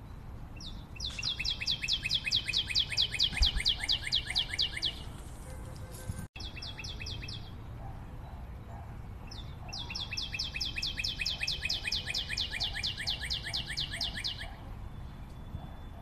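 Bird song: a fast trill of clear high notes, about five a second, lasting about four seconds. It comes twice, with a short snatch between.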